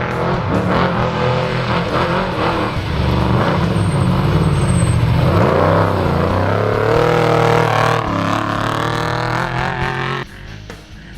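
Off-road trophy truck engine running hard and revving, its pitch rising and falling as the truck passes. The sound drops away suddenly about ten seconds in.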